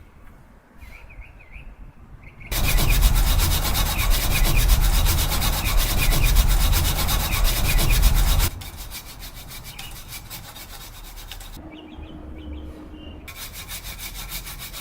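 Chainsaw cutting through wood at full throttle for about six seconds, starting a couple of seconds in, then dropping to quieter running. Birds chirp in the quiet stretches before and after the cut.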